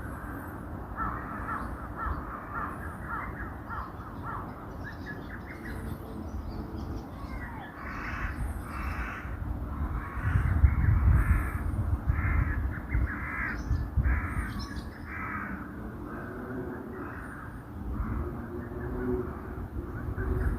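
Crows cawing over and over in a long series of harsh calls, with faint high chirps of small birds above them and a low rumble underneath that swells for a few seconds around the middle.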